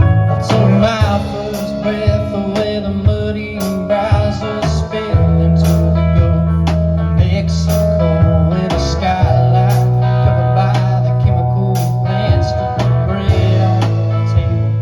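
Live band playing a blues-tinged country song led by guitar, with sustained bass notes and a steady beat.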